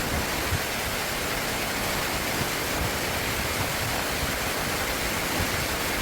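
Stream water flowing, a steady rush of water.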